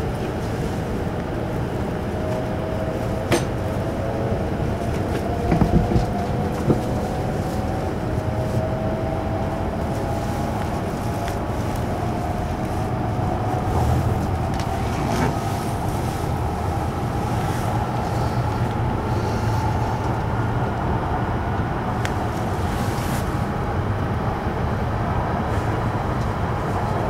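Inside the cabin of an E5 series Shinkansen as it pulls away from a station and gathers speed: a steady running rumble with a motor whine made of several tones slowly rising in pitch. A few sharp knocks come about three to seven seconds in.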